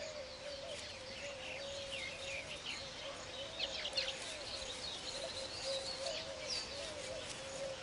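Weaver birds chirping and twittering in quick, short calls, scattered throughout, over a steady, wavering low tone.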